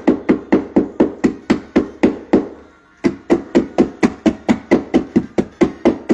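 Rapid, regular knocking on a hard surface, about four strokes a second, stopping briefly before the middle and then going on.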